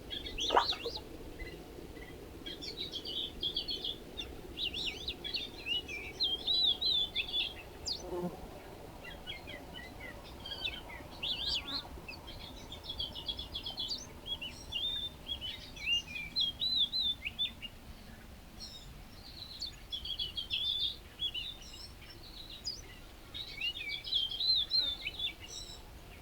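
Small birds chirping and twittering in repeated quick bursts of high, rapidly bending notes, with short pauses between the bursts. A sharp click sounds near the start.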